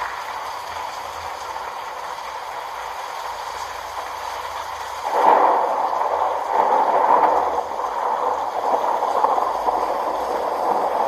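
Steady rushing noise like flowing water, swelling suddenly about five seconds in and staying louder.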